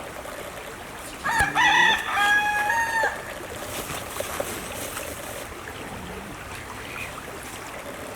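A rooster crows once, a multi-part crow of about two seconds, over a steady background hiss.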